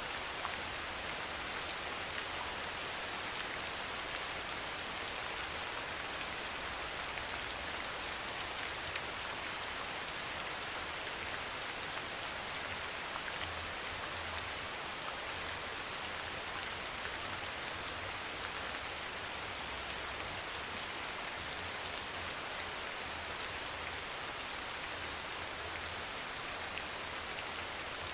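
Steady soft rain: an even hiss of many falling drops with faint scattered drop ticks.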